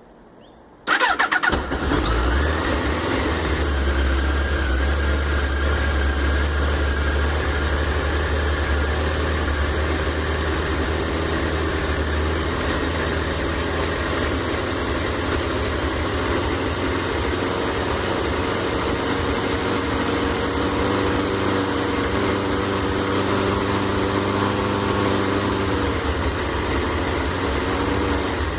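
1996 Suzuki GSX-R 1100 W's liquid-cooled inline-four engine cold-started: it cranks and catches about a second in, then settles into a steady idle.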